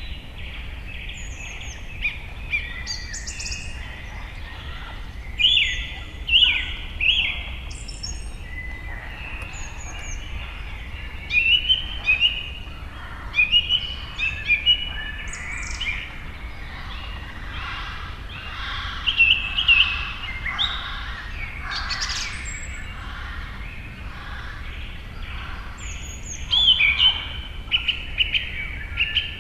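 Several birds calling and singing over one another in quick chirps and short trills, with a steady low rumble underneath.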